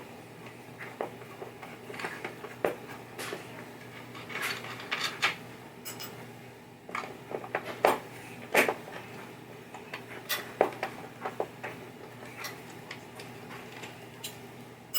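Irregular clicks, clinks and clacks of small metal parts and hand tools being handled while a pinball playfield is taken apart, over a low steady hum.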